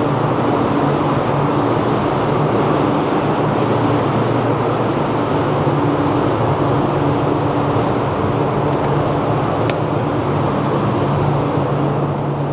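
Industrial heat pump dryer running: its fans and compressor make a loud, steady whirring hum with a constant low drone.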